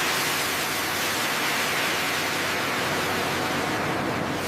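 Steady, loud hissing noise with no pitch, even throughout.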